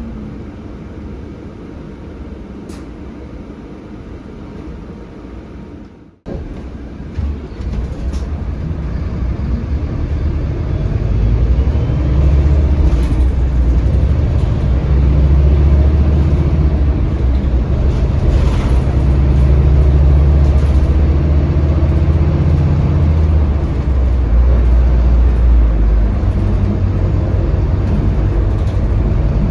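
Scania K320HB bus heard from inside: its Scania DC9 diesel engine runs quietly at first, then, after a brief break in the sound about six seconds in, the low rumble grows from about ten seconds in and holds steady as the engine works harder.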